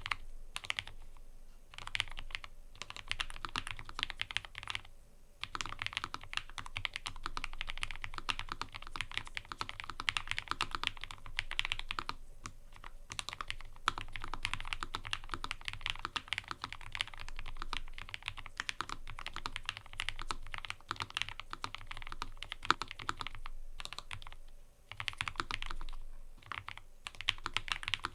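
Fast, steady typing on a mechanical keyboard: dense runs of crisp keystrokes, broken by a few short pauses, about one second in, around five and twelve seconds, and near twenty-five seconds.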